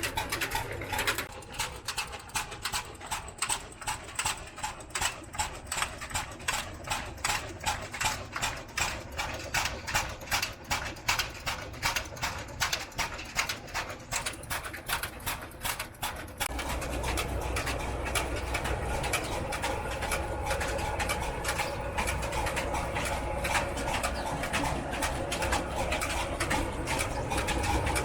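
Old slow-speed 22 hp diesel engine running at about 300 rpm with a regular, even beat of exhaust strokes. About sixteen seconds in, the sound changes suddenly to a steadier, heavier drone with a deep hum underneath.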